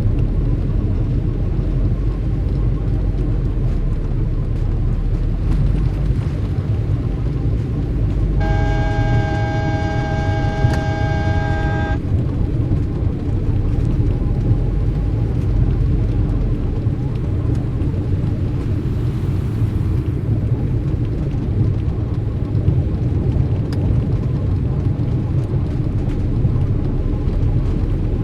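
Steady low rumble of street traffic. About eight seconds in, a horn sounds one long steady note, held for about three and a half seconds.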